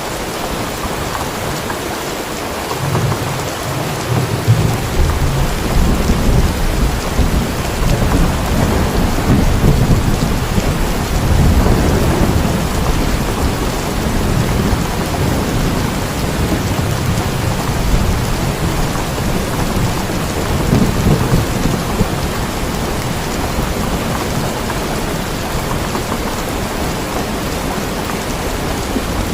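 Steady heavy rain, with a long low roll of thunder that builds a few seconds in and dies away after about twenty seconds.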